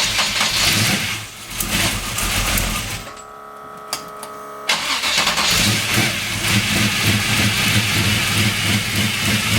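383 stroker V8 with a solid-roller cam and gear-drive timing set running loud, then dropping away about three seconds in. After a short, quieter stretch with a steady whine it catches again suddenly about halfway through and settles into a loud, evenly pulsing, choppy idle, with the noisy gear-drive timing clatter.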